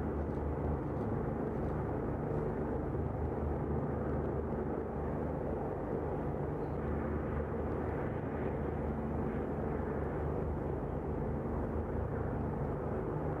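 Aircraft engine running steadily: a continuous low drone with a steady hum under it.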